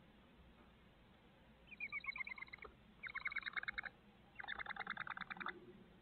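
Three bursts of rapid, chattering bird calls, each about a second long, made of quick repeated notes.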